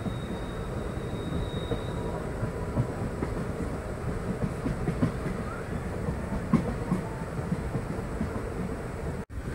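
Passenger express train running along the track, heard from aboard: a steady rumble of wheels on rail with irregular clatter and knocks from the rail joints. The sound drops out for an instant near the end.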